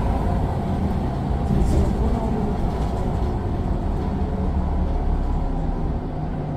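Mercedes-Benz Citaro bus's Daimler OM906 6.4-litre six-cylinder turbodiesel running in a steady low drone, slightly quieter near the end.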